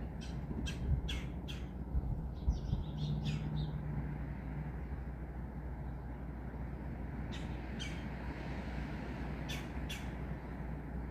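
A steady rush of wind and rain, with a bird giving short squawking calls: four in quick succession near the start, a cluster a few seconds in, then two pairs later on.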